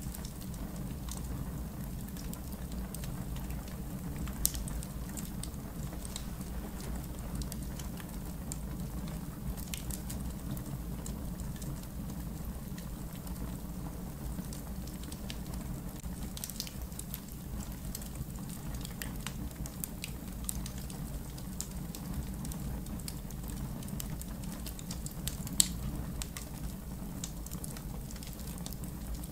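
Wood fire burning in an outdoor fire pit: a steady low rumble of flames with scattered crackles and pops, two of them sharper and louder, about four seconds in and near the end.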